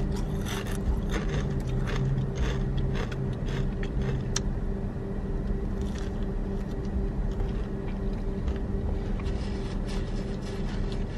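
A person chewing mouthfuls of sub sandwich bread, with short crackly mouth clicks, over the steady low hum of the car running.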